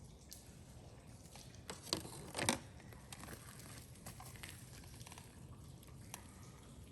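Wood campfire crackling faintly, with scattered small pops and two louder sharp sounds about two seconds in.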